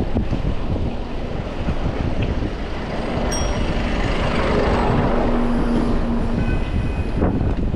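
Wind buffeting the microphone while cycling in traffic, with a motor vehicle passing close by: its engine hum and tyre noise swell to a peak about five seconds in, then fade.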